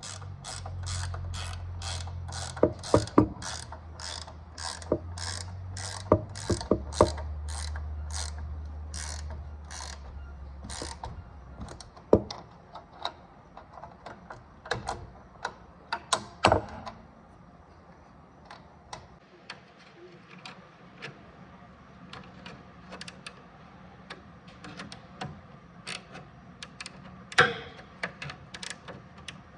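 Ratchet wrench clicking in quick, even strokes, about three a second, over a low steady hum. After about eleven seconds the hum stops and the clicks turn sparse and irregular, with an occasional louder knock.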